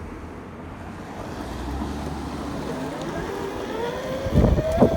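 Electric dirt bike's motor and gearbox whining, rising steadily in pitch as the bike speeds up over the last couple of seconds, over wind rumble on the microphone, with two thumps near the end.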